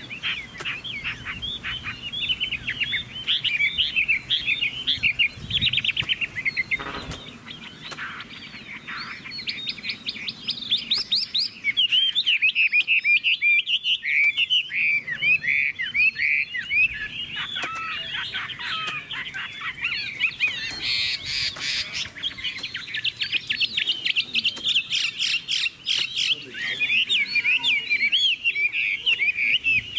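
Chinese hwamei (họa mi) singing a long, unbroken, varied song of rapid whistled notes, with fast trills of repeated notes at about ten seconds in and again past twenty seconds.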